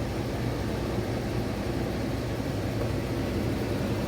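2015 Dodge Charger engine idling steadily right after starting: the no-crank, no-start fault is cured now that the acid-corroded battery wiring has been repaired.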